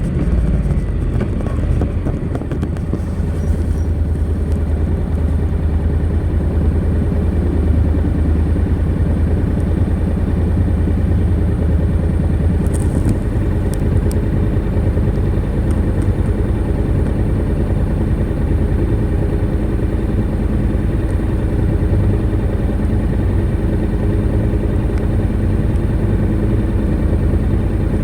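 Honda NC700X DCT's 670 cc parallel-twin engine running steadily through its stock exhaust, a deep, even throb with a slight dip in loudness about two seconds in.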